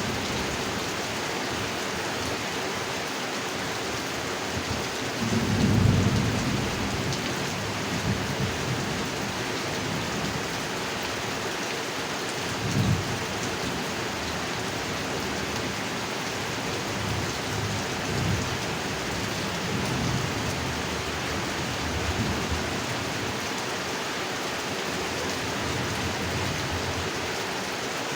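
Steady heavy rain pouring, with low rumbles of thunder: the loudest swells up about five to seven seconds in, a short sharper one comes near thirteen seconds, and fainter rumbles follow later.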